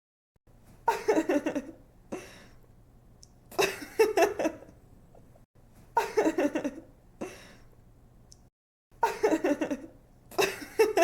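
A young woman giggling in short bursts, about four fits of laughter with breaths between them, a couple of seconds apart.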